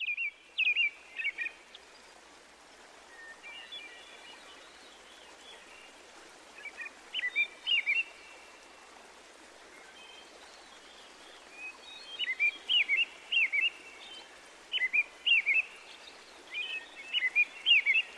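A songbird singing short phrases of quick, sharp chirps, coming in bursts every few seconds and most frequent in the second half, over a steady soft hiss.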